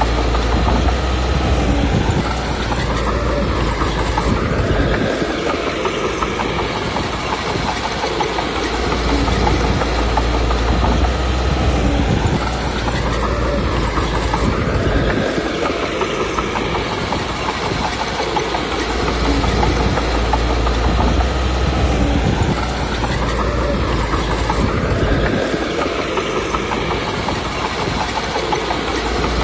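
Komatsu D21P crawler bulldozer working: its diesel engine running under load over a steady clanking of the steel tracks, the engine pitch rising and falling in a cycle about every ten seconds.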